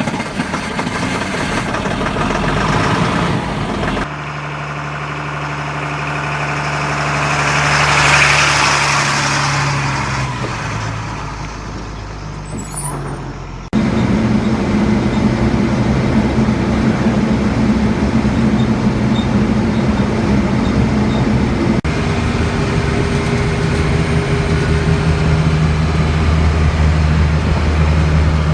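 M1078 LMTV military truck's diesel engine running steadily, heard in several cut-together clips. In one clip it grows louder to a peak and then fades.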